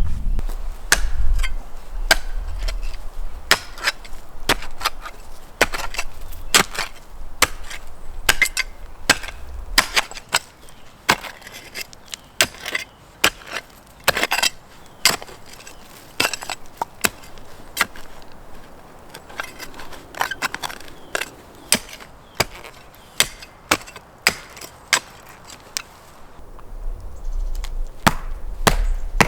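Wood being chopped with a blade: a long run of sharp, irregular knocks, coming quickly in the first half and more sparsely later. A low rumble sits under the start and comes back near the end.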